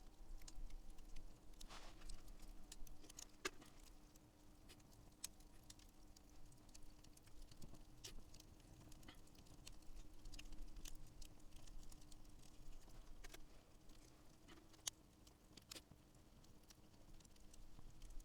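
Wood campfire crackling faintly, with scattered irregular pops and snaps.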